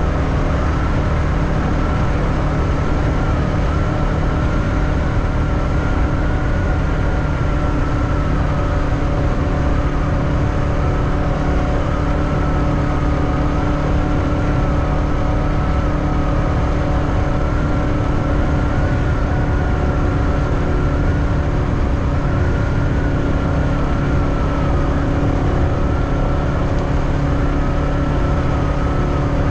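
Motorbike engine running steadily while riding, its note wavering slightly up and down, over a heavy low rumble of wind and road noise.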